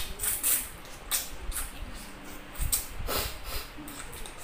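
Close-up mouth sounds of eating boiled chicken by hand: wet chewing and lip smacking, a series of short, irregular smacks.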